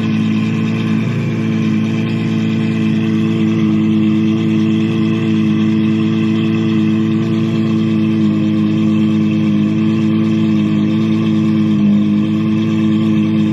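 Ferrari 812 Superfast's naturally aspirated V12 idling steadily through a Novitec straight-pipe exhaust.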